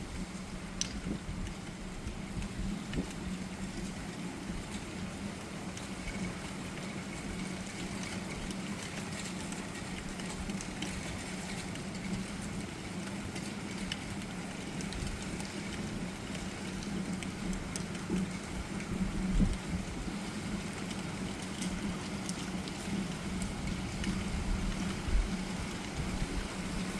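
Steady rain falling in a thunderstorm, as an even hiss, with a low steady hum underneath and a few brief swells in the second half.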